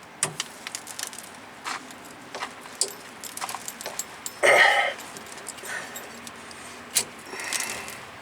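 Hand wrenches clicking and clinking against a rusted steel brake line fitting as it is worked to break it loose, in irregular sharp ticks. A louder noise lasting about half a second comes about four and a half seconds in.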